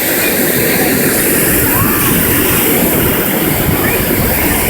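Steady, loud rush of ocean surf and wind on the microphone, with a few faint distant voices calling out.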